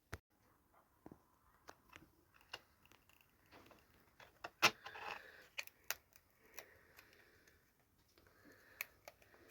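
Hands handling craft materials at a table: scattered light clicks and taps with short bouts of rustling, the loudest click about halfway through.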